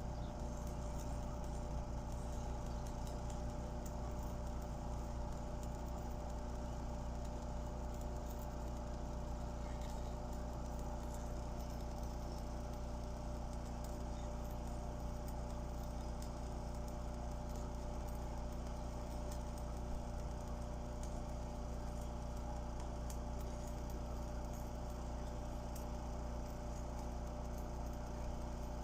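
Steady hum with several held low tones, from a welding machine running, unchanging throughout.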